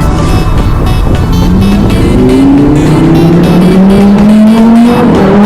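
Lamborghini Huracán EVO RWD's naturally aspirated V10 accelerating under load, its exhaust note rising steadily in pitch.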